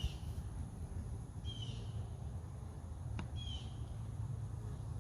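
A bird repeating a short, falling chirp about every two seconds over a steady low rumble, with one faint click about three seconds in.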